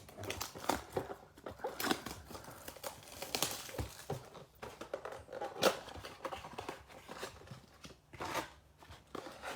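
Plastic shrink wrap being torn and crinkled off a cardboard blaster box of trading cards as the box is opened, in irregular crackles and rips, the sharpest rip a little over halfway through.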